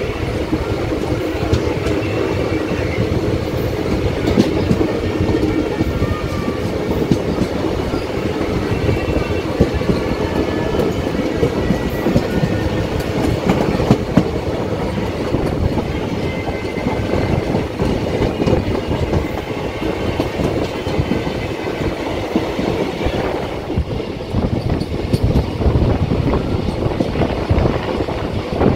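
Moving passenger train: a steady rumble with the clickety-clack of its wheels over the rail joints.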